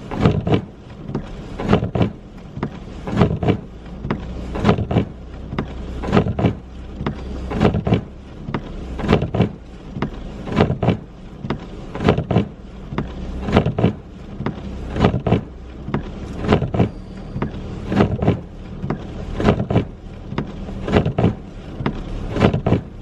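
Inside a car driving in a snowstorm: a regular thump a little under twice a second, typical of windshield wipers sweeping fast, over a steady low road and engine rumble.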